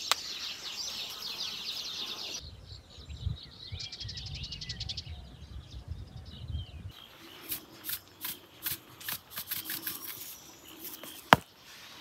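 Small birds chirping outdoors, densely at first. About two and a half seconds in a low rumble takes over with a single high bird trill. From about seven seconds on there is a run of sharp clicks, with one loud knock near the end.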